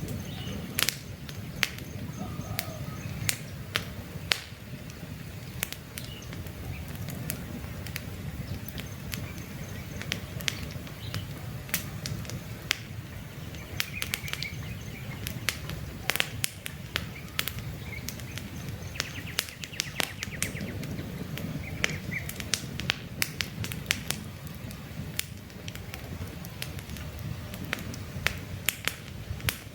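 Wood campfire crackling, with frequent sharp pops and snaps over a steady low rumble of the burning fire. Faint short bird chirps are heard now and then in the background.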